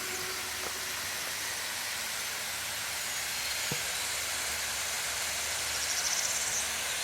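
Waterfall water falling and splashing, a steady, even rushing hiss.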